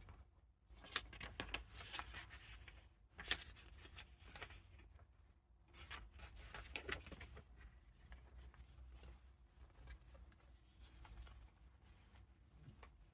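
Paper rustling as the pages and tucked-in paper ephemera of a junk journal are turned and handled, with two sharp page flicks about one and three seconds in, then softer rustling.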